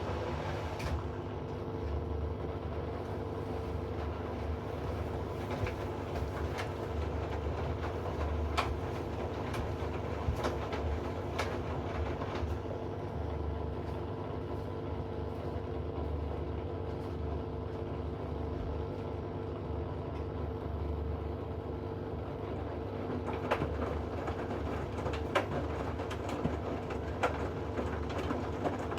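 Hoover inverter washing machine running mid-cycle, its drum motor giving a steady hum with a low rumble and a few fixed tones, with scattered short clicks throughout.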